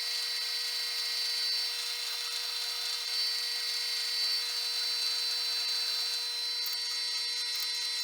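Metal lathe running steadily with a whine of several fixed tones over a faint hiss, turning the flywheel while the hub's diameter and face are being cleaned up.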